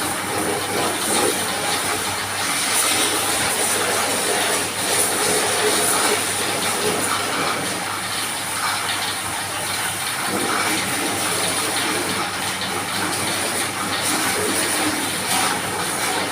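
Car-wash pressure washer running: a steady spray of water over the machine's hum.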